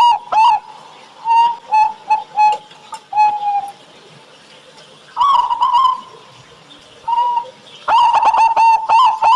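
Zebra doves (perkutut) cooing in quick runs of short, repeated notes. A fast run ends just after the start, a few scattered coos follow, and a second fast run begins about eight seconds in.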